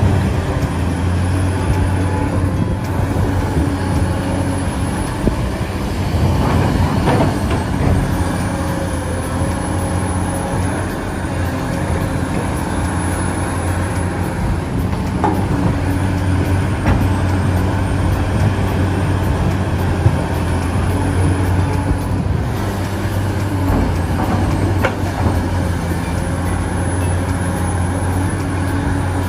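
Engine running steadily with a low, even hum, and a thin high whine that slowly rises and falls over it.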